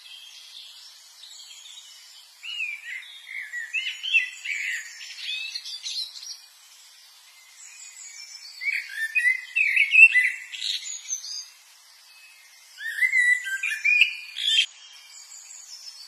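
A songbird singing three bouts of quick, varied whistled notes that slide up and down, each a few seconds long, with short pauses between.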